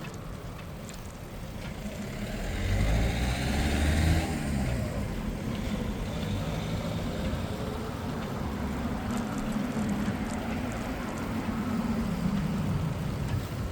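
Street traffic heard from a bicycle: a motor vehicle's engine grows loud and passes close by about three seconds in, then engine hum from traffic carries on steadily.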